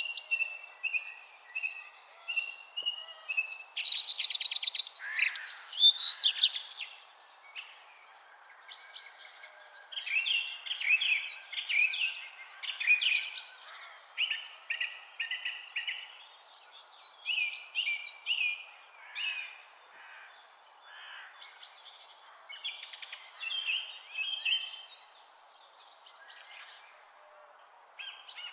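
Several wild songbirds singing and calling in overlapping chirps and trills, busiest and loudest about four to six seconds in, over a steady low hiss.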